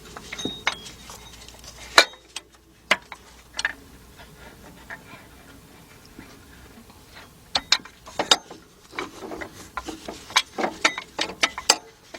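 Scattered metallic clicks and knocks as a belt tensioner and its bolt are handled and worked into place by hand against the engine, with a quicker run of clicks in the last few seconds.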